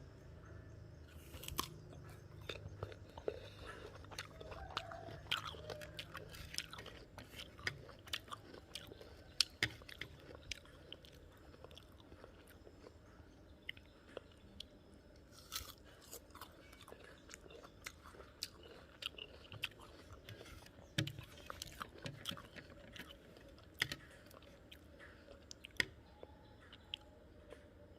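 Guava being bitten and chewed, a steady run of short crisp crunches from the firm fruit.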